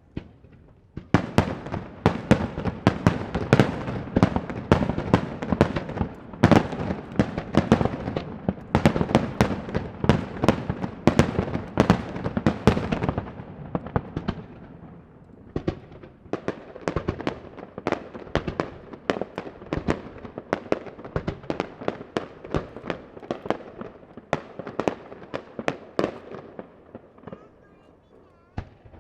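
A fireworks display: a rapid barrage of aerial shell bursts, dozens of sharp bangs in quick succession over a continuous rumble. It starts about a second in, is densest in the first half, then thins out and fades near the end.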